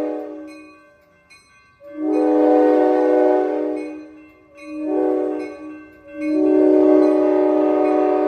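Amtrak San Joaquin train's multi-chime horn sounding a chord in repeated blasts played by the engineer: the end of one blast fading at the start, a long blast about 2 s in, a short one around 5 s, and another long blast from about 6 s held past the end.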